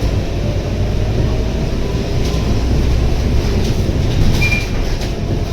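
Scania K230UB city bus with its 9.3-litre Scania DC9 diesel engine running, heard from inside the cabin: a steady low rumble with road noise and small rattles, and a brief high squeak about four and a half seconds in.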